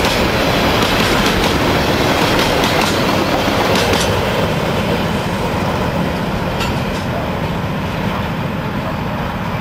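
Freight wagons rolling past over the rails with a steady rumble and clickety-clack, cut through by repeated sharp knocks from wheels worn with flat spots. The sound slowly gets a little quieter toward the end.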